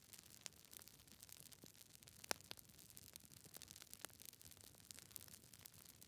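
Wood fire burning in a fireplace, logs crackling with scattered sharp pops and snaps over a faint hiss. There is one louder pop about two seconds in.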